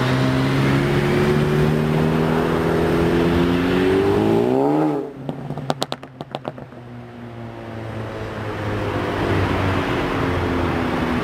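Jet airliner engines with a rising whine for about five seconds, then an abrupt drop with a few clicks. Engine noise then builds back gradually, its pitch falling slowly.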